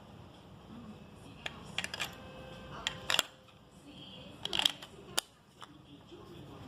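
A scatter of sharp clicks and snaps from hard plastic being handled, with the loudest clusters about three seconds in and again about four and a half seconds in.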